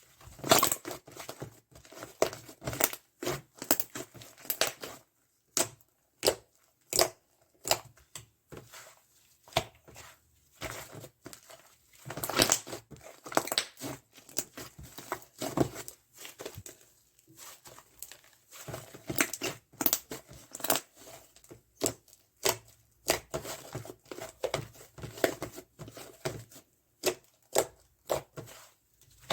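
White slime being squeezed, pressed and stretched by hand, giving irregular crackling, crinkly pops with short pauses between handfuls.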